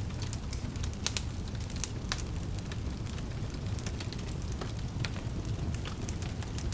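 Fire in a fireplace crackling over a steady low rumble, with irregular sharp pops; the loudest come about one, two and five seconds in.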